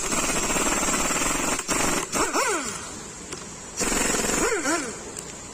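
Impact wrench hammering in two bursts, the first about a second and a half long and the second about a second, each trailing off into a whirring whine that slides in pitch as the fastener spins free; it is undoing fasteners on the adjuster section of a Toyota LJ70 differential.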